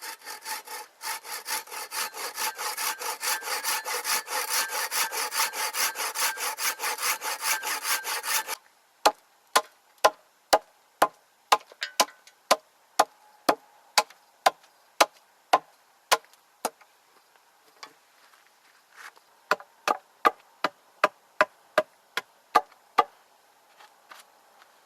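Hand saw cutting through wood in quick, even strokes, about four a second. It stops after some eight seconds and is followed by a run of sharp knocks on wood, about two a second, with a short pause partway through.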